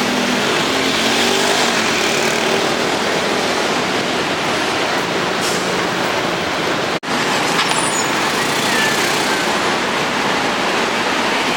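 City street traffic: cars running and passing, engine and tyre noise forming a steady roar, with a brief break about seven seconds in.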